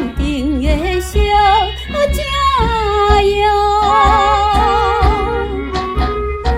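Taiwanese Hokkien popular song in 1950s style, a woman singing a melody with wide vibrato over the original vinyl-record band accompaniment, holding one long note through the middle.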